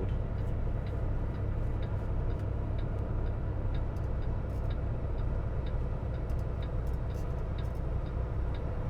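Semi-truck engine and road rumble heard from inside the cab as the truck drives slowly, steady and low, with a light regular ticking of about two ticks a second over it.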